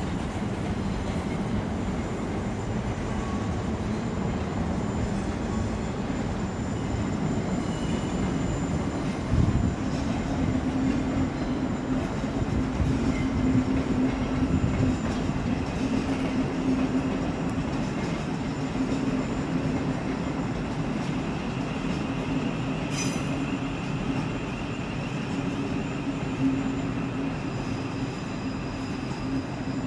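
A passenger train moving slowly through the station, running steadily with faint wheel squeal. A steady low hum sets in about ten seconds in, and there is a single thump just before it.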